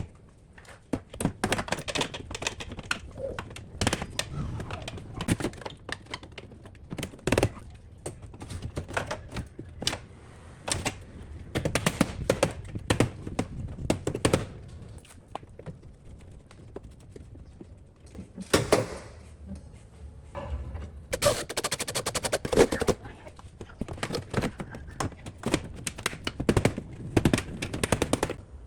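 Irregular sharp knocks and clicks, some coming in quick runs, with short pauses between the bursts.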